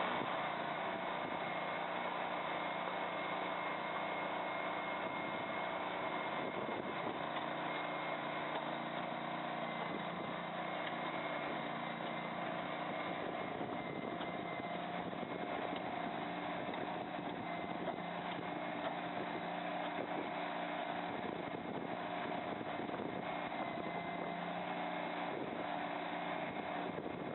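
Engine of a Hysoon HY380 mini skid steer loader running steadily at a constant speed.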